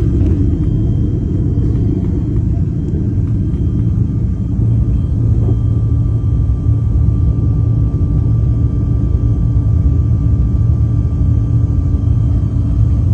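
Private jet cabin noise: the engines' steady low rumble with a constant whine over it, the whine growing stronger about five seconds in.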